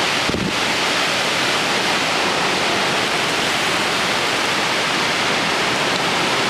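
Torrential downpour driven by strong storm winds, a loud, steady hiss of rain with a brief low bump about half a second in.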